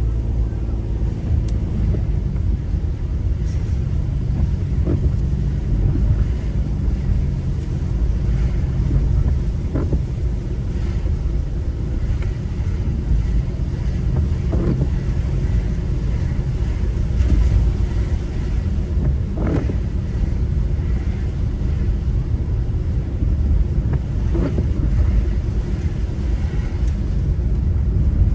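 Car driving on wet roads: a steady low rumble of engine and tyres, with a faint short tick about every five seconds.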